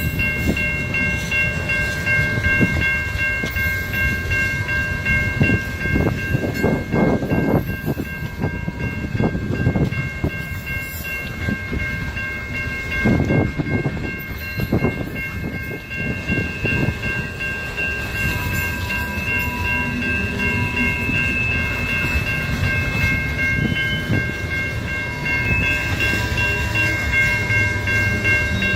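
Freight train rolling past: a steady rumble of wheels on rail with irregular clacks at the rail joints, and a few steady high-pitched tones that carry on throughout.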